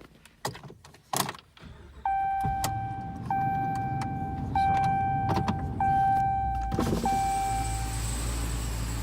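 Cold start of a 2018 Ram 2500's 6.4 L Hemi V8: a few clicks, then the engine catches about two seconds in and settles to idle. Over the idle a steady high-pitched squeak repeats in about five long pulses, each starting with a click, and stops near the end. The owner says the truck makes this squeaking noise whenever it is started cold.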